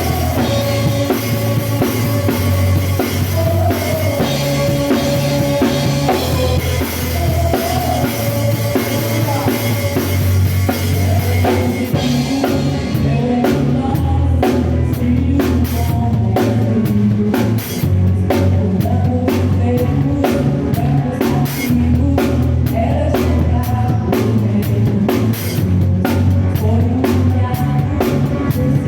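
A Mapex Armory drum kit with Evans heads played along to a gospel song's backing track, with the track's bass and melody underneath. About twelve seconds in the drumming turns sharper and more distinct, with clearer separate strikes.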